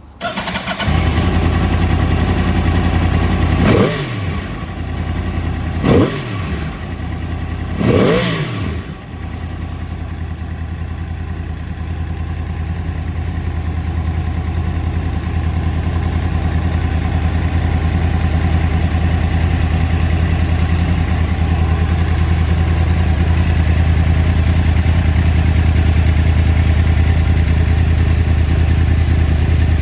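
Yamaha YZF-R1 crossplane inline-four engine starting up. It is revved three times in quick blips, each rising and falling back, then settles into a steady idle that slowly grows a little louder.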